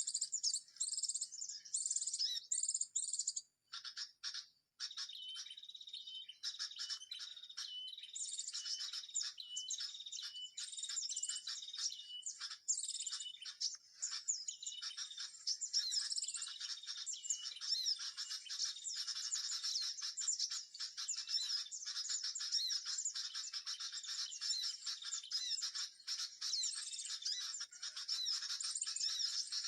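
Small songbirds chirping and twittering in a dense, continuous chorus of quick high-pitched calls, with a short break about four seconds in.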